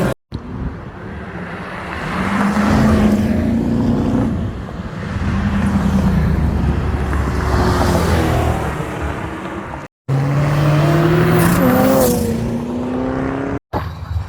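Car engines revving and pulling away in a string of short clips: two loud swells of engine note over the first ten seconds, then after a cut an engine note rising steadily in pitch as a car accelerates.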